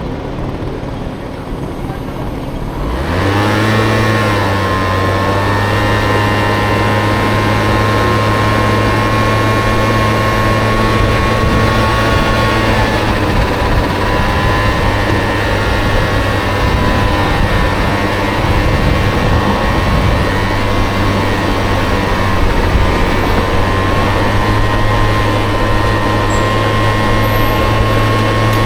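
Small two-stroke Honda Dio scooter engine in a Honda Motocompo revving up about three seconds in, then running at a steady cruising pitch with two brief dips in speed.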